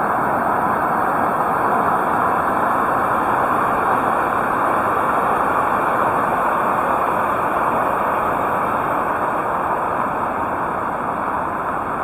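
Heavy rain falling steadily, a dense even hiss that eases slightly near the end.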